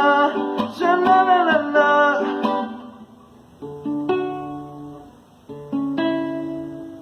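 Acoustic guitar strummed under a singing voice whose held last line ends about two and a half seconds in. Then a few strummed chords follow alone, each left to ring out before the next.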